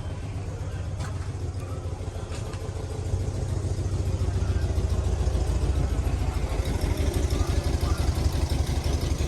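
A car engine running with a rapid low pulsing, getting louder about three seconds in.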